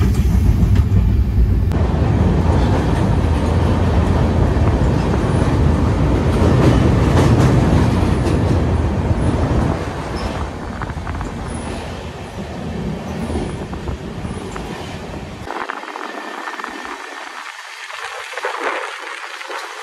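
Passenger train running on the rails, a steady loud rumble that drops in level about halfway through. The deep part of the rumble cuts off abruptly about three-quarters of the way in, leaving a thinner rushing noise.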